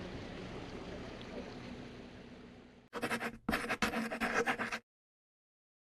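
Faint wind and sea noise, fading out over the first few seconds. About three seconds in, a choppy scratching sound lasts about two seconds and cuts off abruptly into silence.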